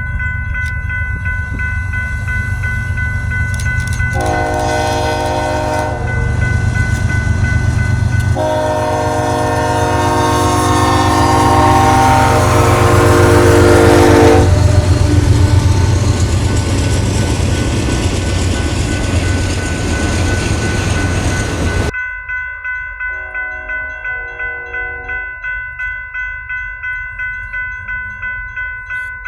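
Diesel locomotive horn sounding a short blast and then a long blast over the heavy rumble of a passing train, with a bell ringing steadily throughout. About 22 seconds in the sound cuts to a quieter scene where the bell keeps ringing in regular strokes and a shorter horn blast sounds.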